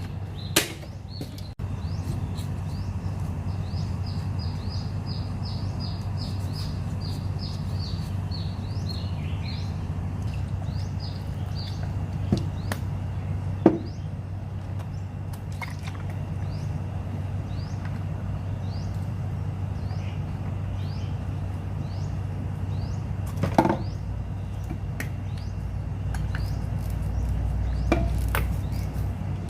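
A steady low hum with a bird chirping: a quick run of short, rising notes, about two a second, for the first dozen seconds, fainter later. A few scattered sharp knocks.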